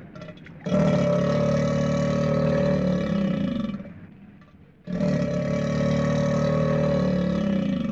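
Two long, even roars of about three seconds each, starting and stopping abruptly, the second beginning about a second after the first ends.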